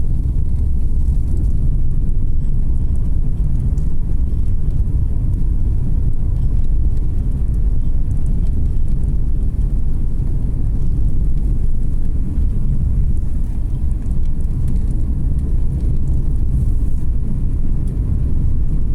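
Car being driven, with a steady low rumble of road noise and engine throughout.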